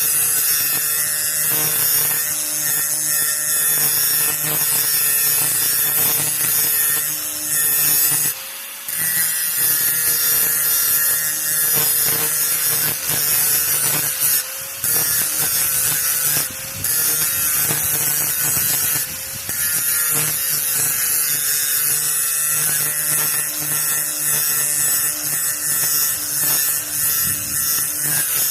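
Grinder running and grinding the steel edge of a lawn mower dethatching blade, cleaning up its rough edge: a steady motor whine under a harsh grinding noise, dipping briefly a few times.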